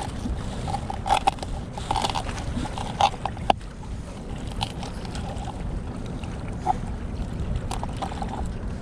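A knife cutting a chunk of bait from a gizzard shad, heard as scattered clicks and taps over the steady rush of river water.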